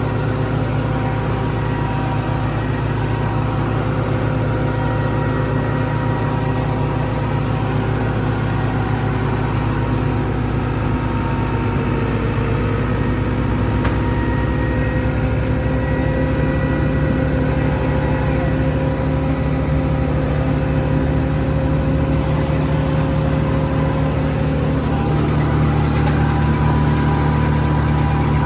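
Tractor engine running steadily as it drives a chopper machine, a low rumble with a few steady whining tones over it. The rumble shifts slightly in tone near the end.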